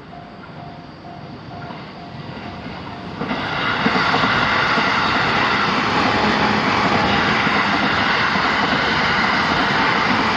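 Japanese railway level-crossing alarm ringing in evenly repeated electronic dings. About three seconds in, a JR Joban Line train arrives and passes loudly, its rolling noise drowning out the alarm.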